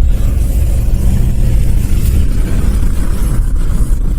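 Car driving slowly along a snow-covered street, heard from inside the cabin: a steady low rumble of engine and tyres.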